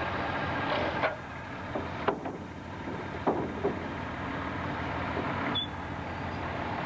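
Sawmill machinery running steadily, with a handful of sharp knocks in the first few seconds and a short high squeak near the end.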